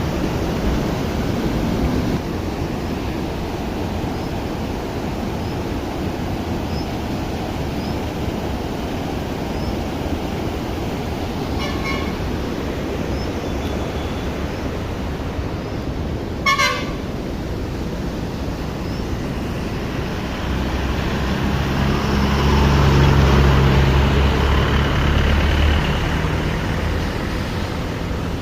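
Waterfall rushing steadily. A vehicle horn toots briefly twice near the middle. Later a motor vehicle's engine drone swells and fades as it passes.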